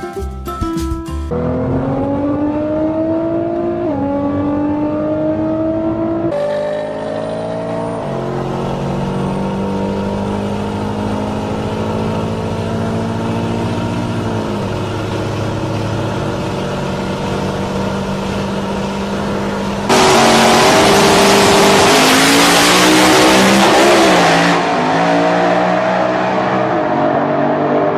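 A performance car's engine accelerating hard through the gears. Its pitch climbs and drops back at each shift, three quick shifts in the first eight seconds. It then holds a steady pitch for a stretch. Near the end a loud rushing noise covers it for about four seconds.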